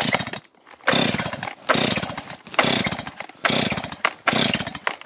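Cold two-stroke chainsaw engine firing in five short bursts about a second apart, each dying away again: it is struggling to keep running on half choke.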